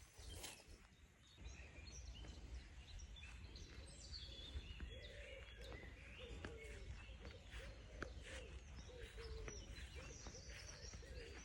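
Faint morning birdsong: high chirps over a dove's low cooing, repeated about twice a second from about two seconds in.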